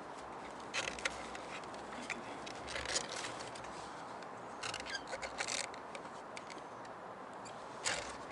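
Scattered clicks, knocks and light rattles from handling the fuel pump assembly's plastic top and its parts, over a steady background hiss.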